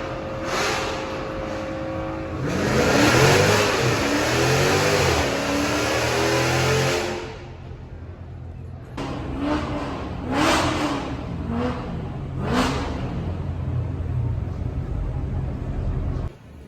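A car engine revving: a long rev with the pitch rising and falling a few seconds in, then several short throttle blips over a steady running engine, cutting off suddenly near the end.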